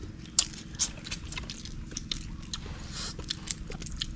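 Close eating sounds: chewing and crunching, with scattered sharp clicks and crackles as cooked fish and shrimp are bitten and picked apart by hand.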